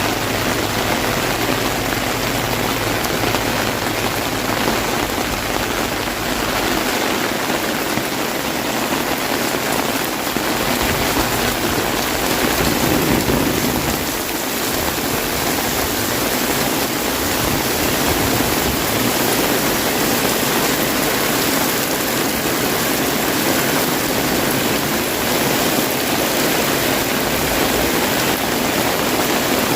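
Heavy rain falling steadily on an umbrella overhead, a dense, even patter of drops.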